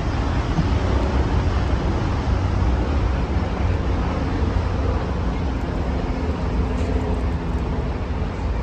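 Steady low rumble of city traffic, unbroken throughout.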